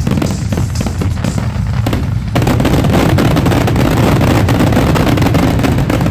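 Fireworks grand finale: a rapid barrage of overlapping bangs and booms over a deep rumble, growing denser and louder about two seconds in.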